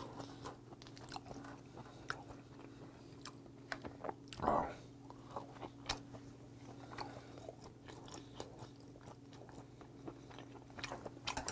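Close-miked mouth sounds of a person chewing raw yellowtail sashimi: faint wet smacks and clicks, with one louder mouth noise about four and a half seconds in, over a steady low hum.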